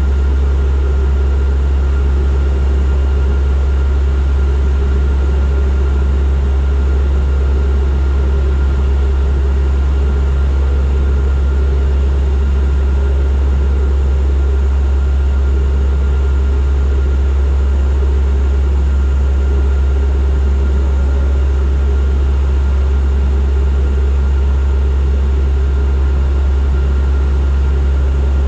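Turboprop airliner's propellers and engines heard from the cabin in steady flight: a loud, unchanging low drone with a thin steady whine above it.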